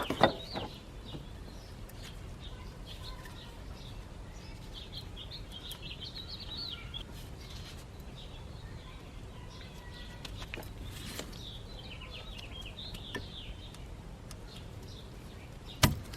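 Small birds chirping repeatedly in the background over a steady low hum, with a single sharp knock near the end.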